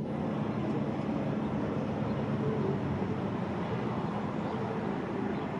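Steady low rumble of city street traffic, with a faint engine hum running through it.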